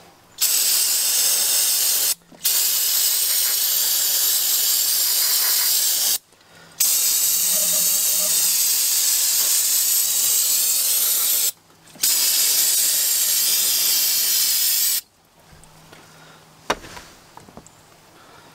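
A loud, steady hiss of gas escaping under pressure. It runs in four long bursts with short, sharp breaks between them and stops abruptly near the end, followed by a single click.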